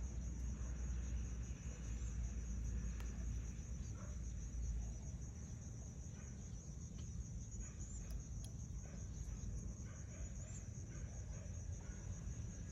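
Outdoor ambience: a steady, high-pitched, rapidly pulsing insect trill over a low rumble, with faint short bird calls scattered through the second half.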